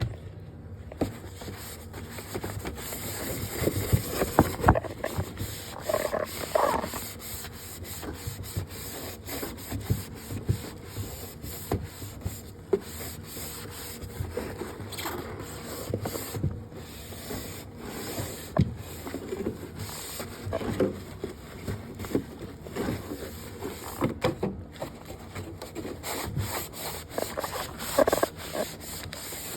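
Surfaces scrubbed and wiped by hand, in irregular rubbing strokes with scattered light knocks.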